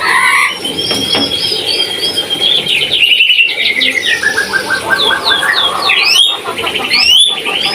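Papuan parrot (nuri) calling: quick strings of squeaky, whistled notes, a run of notes that falls in pitch midway, and fast rising squeals near the end.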